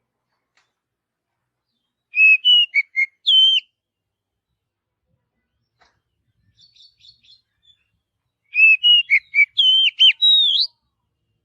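Oriental magpie-robin (kacer) singing: two loud phrases of quick, varied whistled notes that slide up and down, about two seconds in and again near the end, with a fainter, choppier phrase between them.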